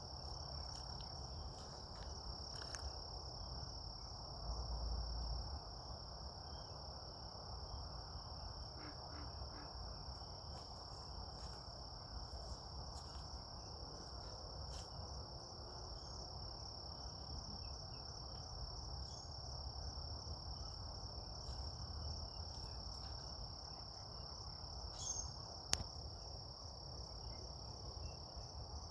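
Insects, crickets or katydids, singing in a steady, unbroken high-pitched chorus, over a faint low rumble.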